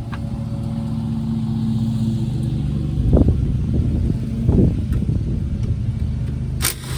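Dodge Dart Sport's engine idling steadily, with two short blips of the throttle about three and four and a half seconds in. A sharp click near the end.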